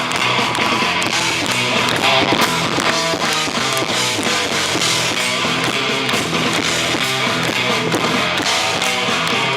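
Live rock band playing an instrumental passage led by electric guitar, loud and steady, with the sound distorting and breaking up in the recording.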